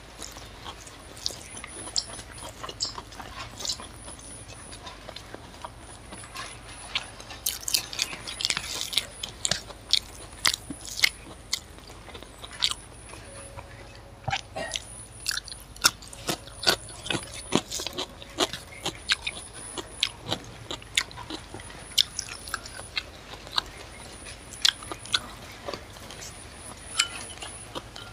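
A person eating chicken curry and rice by hand, close to the microphone: chewing with frequent wet clicks and lip smacks at an irregular pace.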